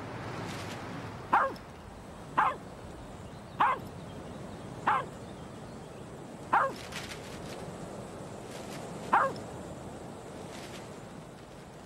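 A dog barking six times, single short barks spaced a second or more apart, each dropping in pitch.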